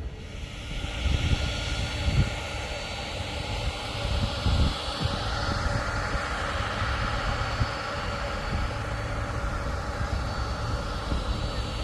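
Jet airliner passing low overhead on its landing approach: steady jet engine noise with a high whine, and wind buffeting the microphone.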